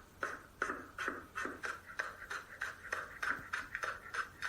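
Kitchen knife working in a rapid, even series of short strokes, about three a second.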